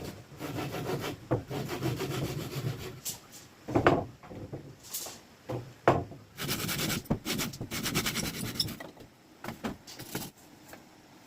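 Hand tool scraping and rubbing on wood in uneven strokes, with two sharp knocks about four and six seconds in; the work stops shortly before the end.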